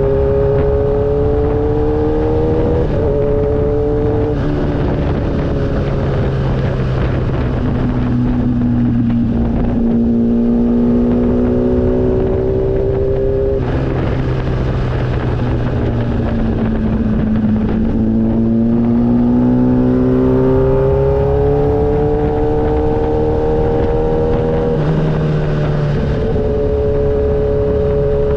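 Motorcycle engine running under way, its pitch climbing under throttle and dropping sharply at each gear change, several times over, with steady wind and road noise beneath.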